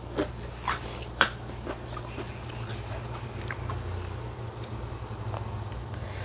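Crunching and chewing of crisp fried food close to the mic: three sharp crunches in the first second or so, then only faint chewing clicks over a steady low hum.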